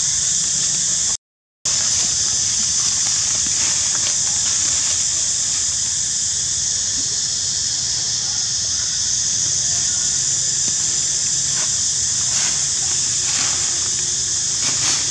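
A steady, high-pitched hiss that holds level throughout. It cuts out for about half a second about a second in, and a few faint short squeaks come near the end.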